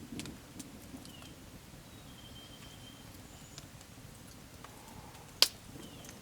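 Campfire crackling, with scattered small pops and one loud sharp snap about five seconds in.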